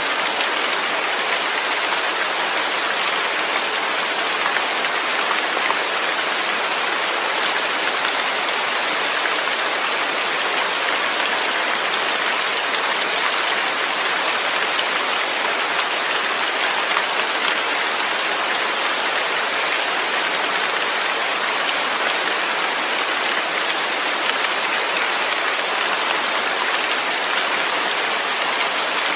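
Steady rain falling, an even hiss of drops with no let-up or change in strength.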